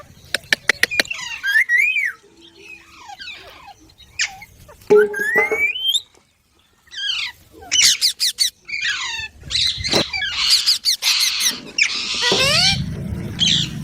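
Baby green parrot chirping and squawking: short whistled calls that glide up and down, with runs of sharp clicks near the start and again about eight seconds in. After a brief pause about six seconds in, the calling grows busier and harsher toward the end.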